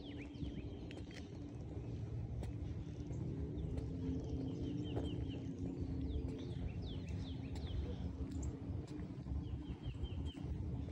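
Birds chirping outdoors: many short falling chirps and a few quick runs of repeated notes, over a constant low rumble and a steady low hum.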